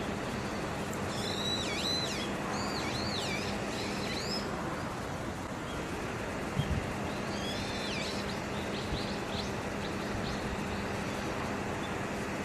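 A small wild bird calling: a run of quick, swooping whistled notes starting about a second in, and another run near eight seconds, over a steady background hiss. A short soft thump comes at about six and a half seconds.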